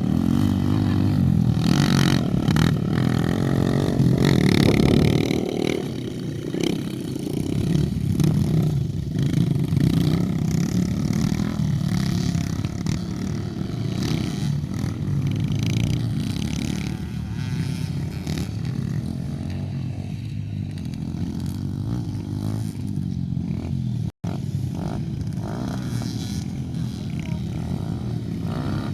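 Dirt bike engines running and revving, the pitch rising and falling as the bikes ride, loudest in the first few seconds. The sound cuts out for an instant near the end.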